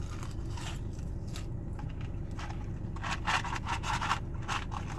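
Close-up eating noises from a crispy chicken sandwich being bitten, chewed and handled: short crunching and rustling noises, thickest in a run of quick scrapes about three seconds in.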